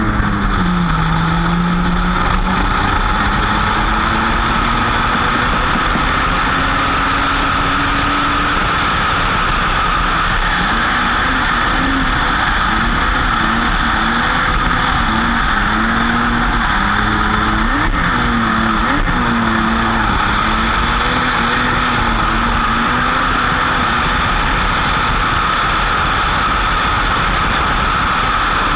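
Drift car's engine, heard from on board, with its pitch climbing and dropping again and again as the throttle is worked. A steady rushing noise runs under it throughout.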